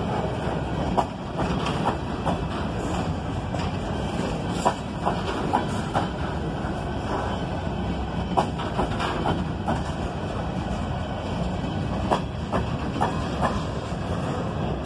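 Coal train's freight cars rolling past: a steady rumble of steel wheels on rail, with irregular sharp clicks and clanks.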